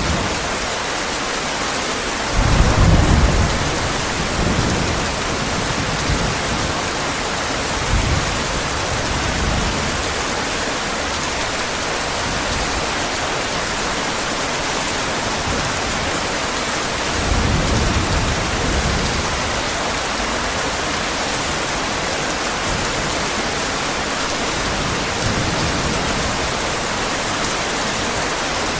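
Steady heavy rain with thunder rumbling low several times; the loudest roll comes a couple of seconds in and another one about halfway through.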